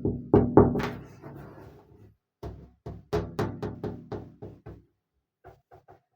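A fast run of sharp knocks, each ringing briefly, breaking off about five seconds in, followed by three faint taps.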